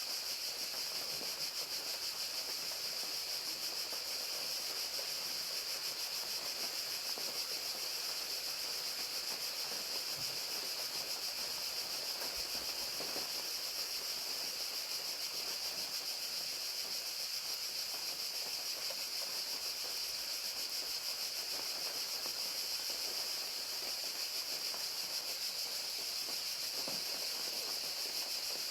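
Crickets chirping steadily in a continuous high-pitched trill, with rain falling as a steady hiss beneath.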